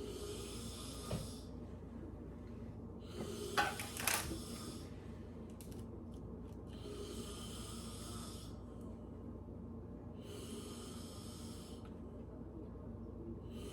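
A person breathing audibly close to the microphone: slow, hushing breaths, about five of them, each lasting a second or two and coming every three seconds or so.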